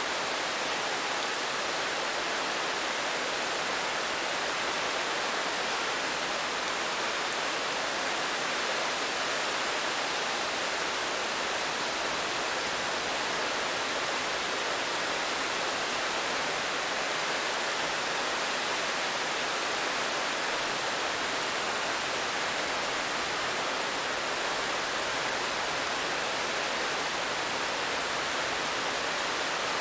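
Steady rain falling, an even hiss of water with no distinct drops or other sounds.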